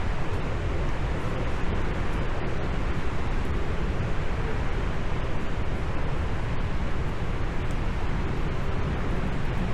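Heavy rain falling, a steady dense hiss with no letup.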